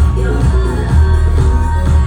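Loud live music from a concert PA: a heavy, pulsing bass line with a sung melody over it, as heard from within the audience.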